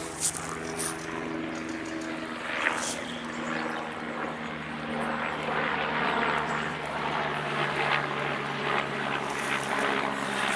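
Helicopter flying overhead: a steady engine-and-rotor drone with a low hum.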